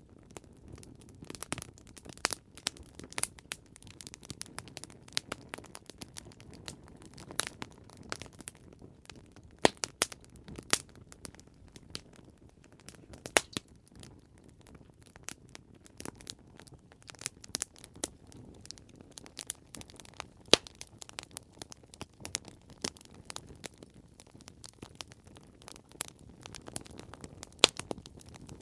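Campfire crackling: sharp, irregular pops and snaps, several a second, over a low steady rustle of burning wood.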